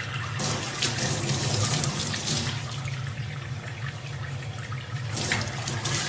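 Running water, like a tap pouring steadily, with a few louder splashy moments.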